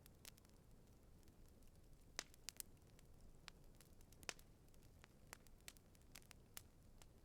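Campfire crackling: scattered sharp pops and snaps, the two loudest about two and four seconds in, over a faint low rumble.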